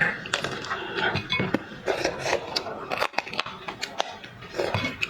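Boston lobster shell being cracked and pulled apart by hand: a run of sharp clicks and crackles, with dishes and cutlery knocking.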